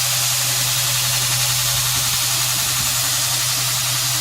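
2x72 belt grinder (OSG Sayber design) running with no load: a steady hiss of the abrasive belt over the motor's even low hum.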